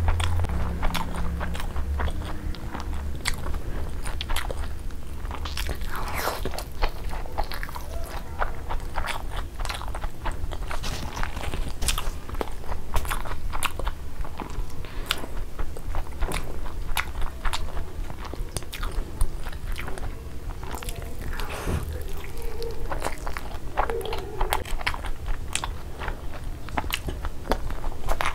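Close-miked biting and chewing of fried sunny-side-up eggs with crisp browned edges: wet mouth sounds and irregular crunching clicks. A low steady hum sits underneath.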